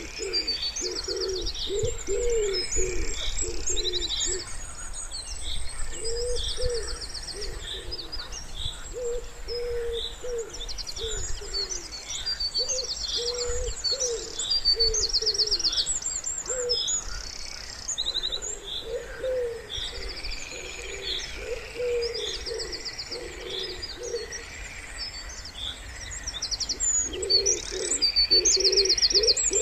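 Wood pigeon cooing in repeated low phrases that come and go in several bouts, over a continuous chorus of small songbirds chirping and trilling high above.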